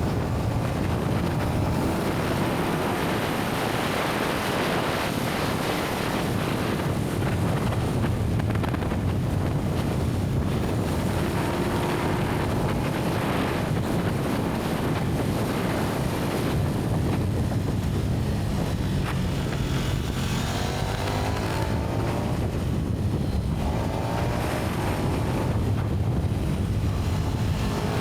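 KTM 1290 Super Duke R's V-twin engine running on its stock exhaust while riding, with heavy wind noise on the microphone. Near the end the engine pitch climbs in several short rises.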